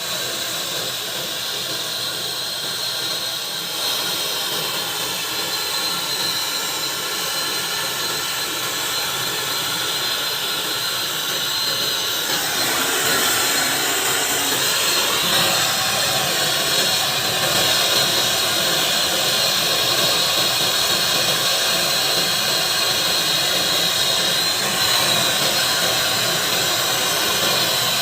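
MAP gas blow torch flame burning with a steady hiss, growing louder and fuller about twelve seconds in.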